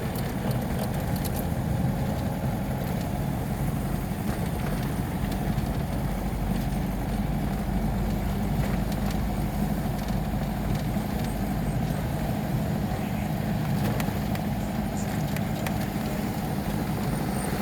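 A car's engine and tyre noise, a steady low hum with no change in speed, heard while riding in the moving car.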